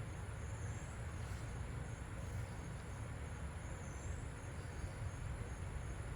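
Steady low background rumble, with a couple of faint high insect-like chirps.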